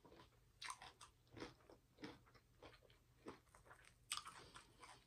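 Faint chewing close to the microphone: soft mouth clicks and smacks roughly every half second or so, with a small cluster of them near the end.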